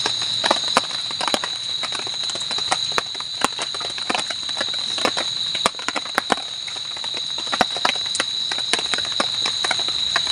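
Night insects droning steadily at one high pitch, with irregular sharp clicks and crackles scattered throughout.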